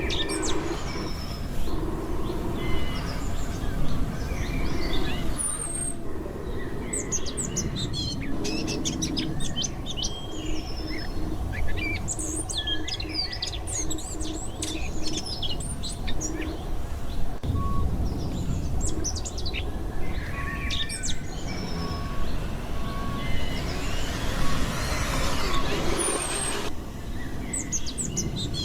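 Small birds chirping and trilling over and over, with a steady low rumble underneath and a run of short, evenly spaced low blips in the middle.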